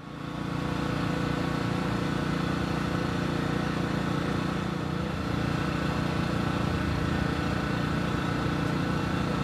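An engine running steadily at an even speed, with a low rumble and a faint steady whine on top. It starts abruptly out of silence.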